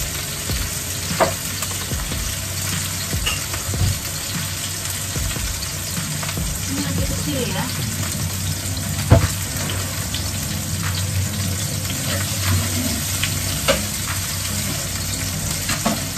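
Tapioca-floured pieces shallow-frying in a little oil in a wok over low heat, a steady sizzle. A spatula clicks against the wok a few times, the sharpest about nine seconds in.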